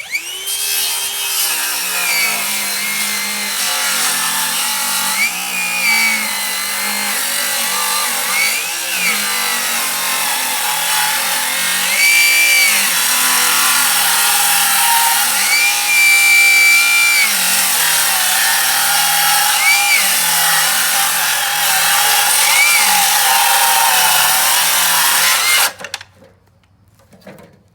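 Metabo HPT 36V MultiVolt 7¼-inch rear-handle circular saw ripping lumber at a 45-degree bevel. Its pitch dips and recovers several times as it is pushed through under load, and it stops near the end.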